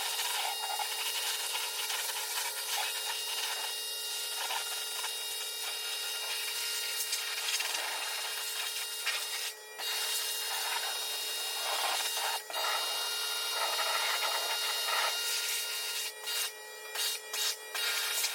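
Pressure washer spraying a steady hiss of water, cut off briefly a few times near the end as the trigger is let go and squeezed again.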